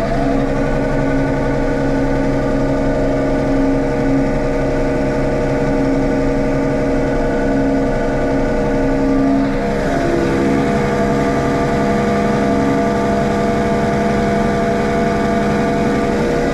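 Tractor engine running at steady revs, its tone shifting slightly about ten seconds in.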